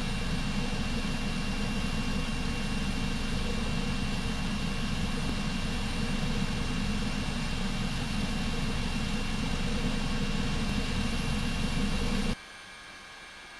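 Helicopter running steadily, a loud, even engine and rotor noise with a fixed whine, which cuts off abruptly to a much quieter background about 12 seconds in.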